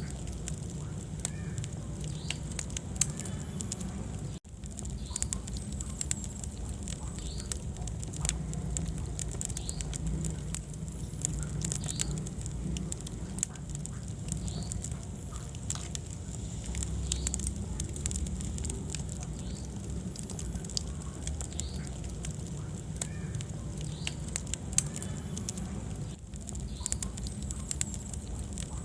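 Wood fire burning in a fireplace: irregular sharp crackles and pops over a steady low rumble of the flames. There is a brief cut-out in the sound about four seconds in.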